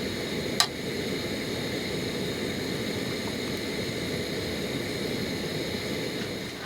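Steady cooking hiss of webfoot octopus and chives frying in a pan over a camp burner, with a sharp click about half a second in.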